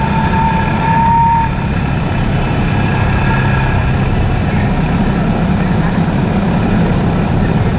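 Cessna 172's four-cylinder piston engine and propeller droning steadily, heard from inside the cabin. A steady high tone sounds for about a second and a half near the start.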